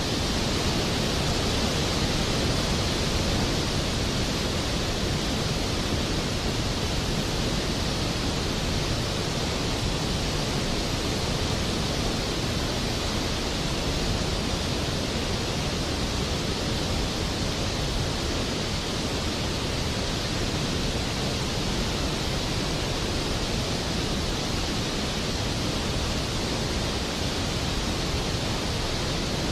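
Steady rain falling, a constant even hiss with no thunder or changes in level.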